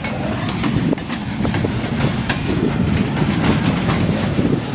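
Long Canadian Pacific freight train rolling past: a steady low rumble with irregular clicks.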